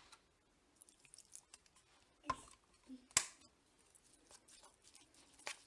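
Light clicks and taps of kitchen food preparation, with two sharper clacks about two and three seconds in.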